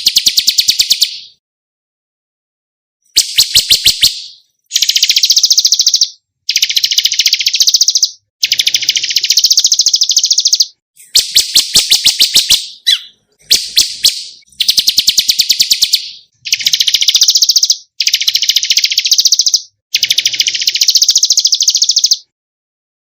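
A songbird from a masteran training recording repeating a phrase of rapid, high trilled notes, about ten times, each burst lasting a second or two with short pauses between.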